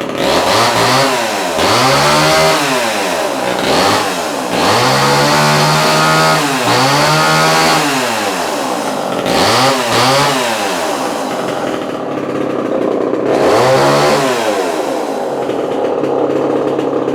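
Homelite Super XL Automatic two-stroke chainsaw running, revved up and let back down to idle about six or seven times in a row, with short stretches of steady idle between.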